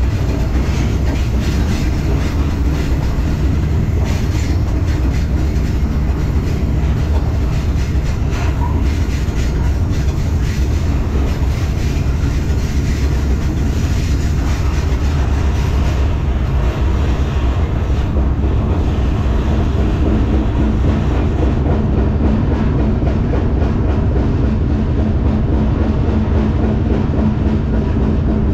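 Freight train rolling at speed, heard from aboard an intermodal well car: a steady low rumble of steel wheels on rail with the car rattling and faint, regular clicks. A steady low hum comes in about two-thirds of the way through.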